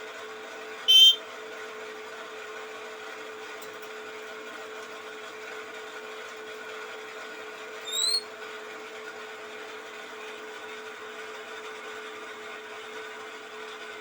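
A small songbird gives two short high chirps: one loud, bright call about a second in and a brief upward-sweeping chirp past the middle. A steady machine-like hum runs underneath.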